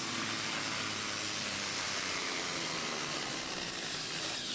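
Engine of a Supersport-class pulling truck running at full power during a pull, a steady dense noise. A high whine falls in pitch near the end.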